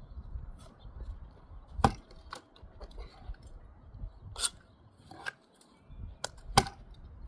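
Bricklaying work: a steel trowel giving a few irregular sharp taps and clicks against brick and mortar, about six knocks in all, two of them louder than the rest.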